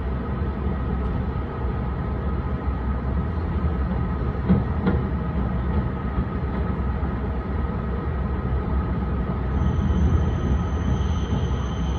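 Running noise of an Akita Shinkansen Komachi train heard from inside the car: a steady low rumble with a thin steady whine and a couple of clicks from the wheels about four to five seconds in. A thin high tone comes in near the end.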